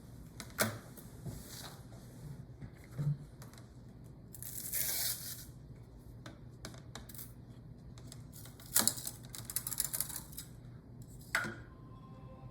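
Scattered sharp clicks and rattles of small hard objects being handled, with a short rushing hiss about five seconds in and a quick cluster of clicks near the end.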